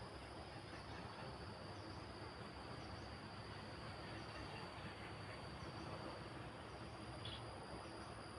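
Wind blowing steadily, with a continuous high insect trill over it and a faint chirp repeating about once a second.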